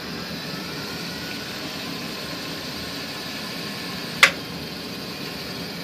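Hammond A-100 tonewheel organ switched on and idling with no keys played: a steady hum and hiss from its motor and amplifier, with one sharp click about four seconds in.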